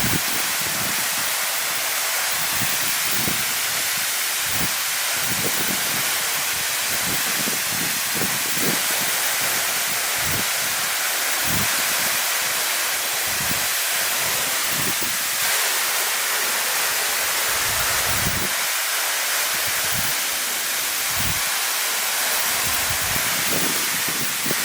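Steady rushing hiss of a tall vertical waterfall, water falling about 38 m into its plunge pool, with irregular low buffets mixed in.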